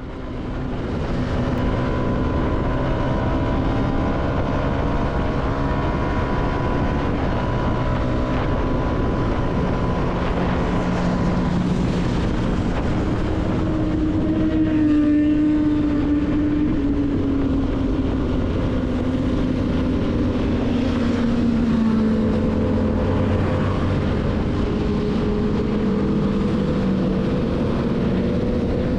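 CFMoto motorcycle engine running under way with wind noise, its note slowly rising and falling with road speed.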